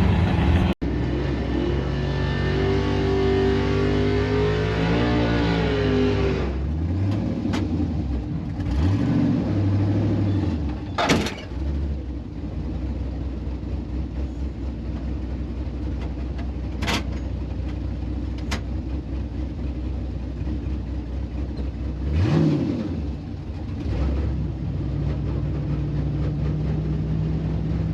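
Drag car engines running at a drag strip, the revs rising and falling several times, with a few sharp cracks and one car's engine sweeping up and back down as it goes past.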